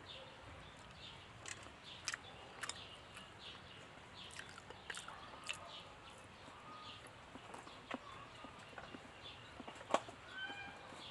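Eating sounds from a meal taken by hand: soft chewing and scattered small clicks and smacks. A few short animal calls come in near the end.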